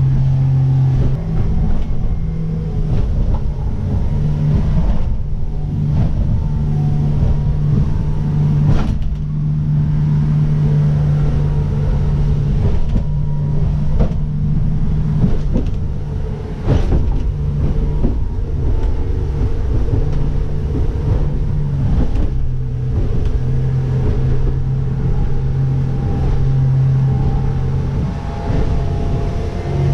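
Motorboat engine running steadily under way, its hum shifting slightly in pitch, over a low rumble of wind and water, with a few sharp knocks as the hull works through rough water.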